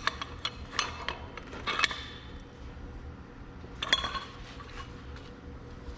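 Metal tools and parts clinking and tapping: a run of light metallic clinks in the first two seconds and a sharper one about four seconds in, over a low steady hum.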